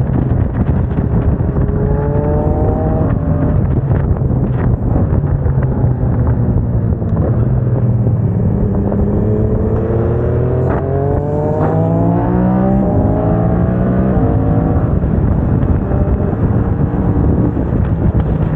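Yamaha MT-07's parallel-twin engine through a MIVV aftermarket exhaust, under way with wind noise. The engine pitch climbs briefly about two seconds in and again over several seconds mid-way, stepping as it changes gear.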